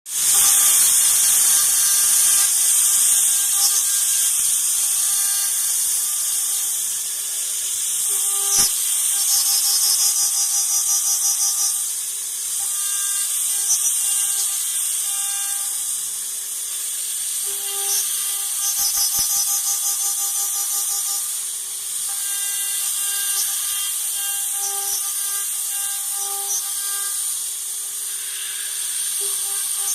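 AKG6090 CNC milling machine running, its spindle giving a steady whine under a constant high hiss, with faint rhythmic chatter coming and going as the machine works.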